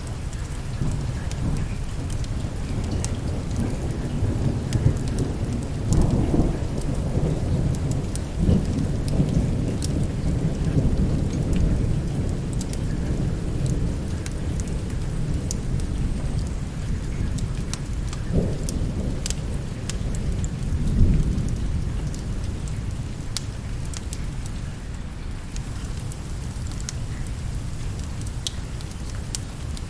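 Steady rain with a long rolling thunder rumble that swells through the first two-thirds, loudest around 6 to 12 seconds in and again briefly about 21 seconds in, then eases off. Scattered sharp clicks sound throughout.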